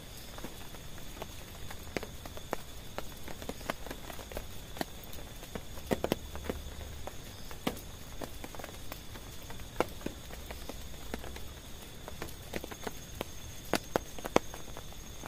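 Raindrops tapping irregularly on a tent, a few sharp drops a second landing over a soft steady hiss of rain.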